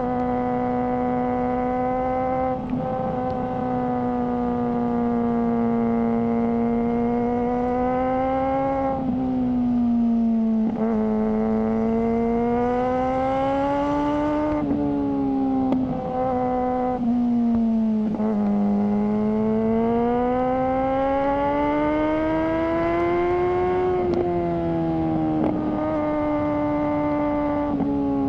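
Suzuki GSR600 inline-four engine through a GPR Ghost exhaust, running under way: its steady note slowly rises and falls with the throttle, broken by several quick drops and jumps in pitch.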